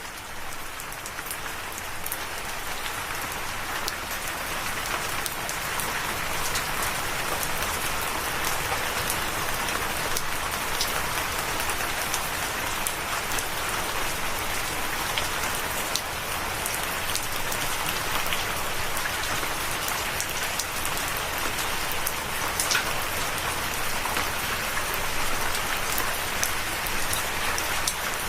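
Steady rain falling on a surface, a dense even hiss flecked with individual drop ticks; it swells up over the first few seconds, then holds steady.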